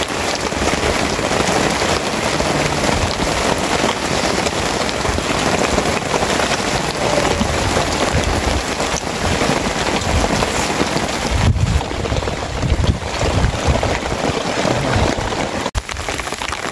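Steady rain falling, an even hiss. About two-thirds of the way through, low gusty rumbles of wind join it.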